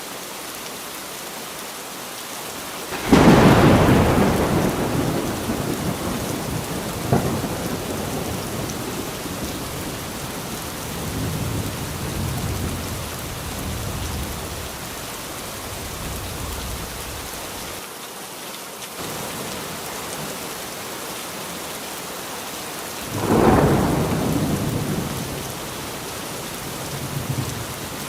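Steady rain falling, with thunder: a loud thunderclap about three seconds in that rolls away over several seconds, a smaller crack soon after, low rumbling in the middle, and a second loud clap near the end.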